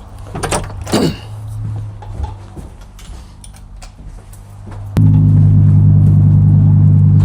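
Door-entry intercom buzzer sounding: a loud, steady electric hum that starts suddenly and cuts off abruptly after a little over two seconds as the lock is released. A few clicks and knocks come about a second in.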